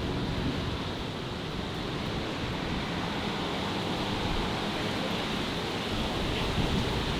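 Steady city street ambience: an even, continuous hiss of background noise with no distinct sounds standing out.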